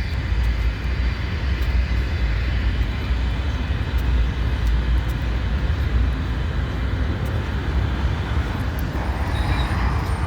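Norfolk Southern freight train rolling past with a steady low rumble and scattered light clicks of wheels on the rails; a hiss rises about nine seconds in.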